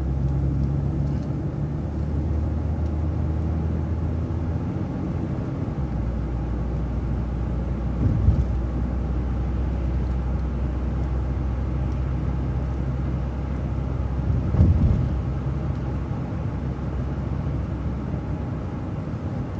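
City transit bus engine running as the bus drives, a steady low drone whose pitch shifts about six seconds in. Two brief louder thumps come about eight and fifteen seconds in.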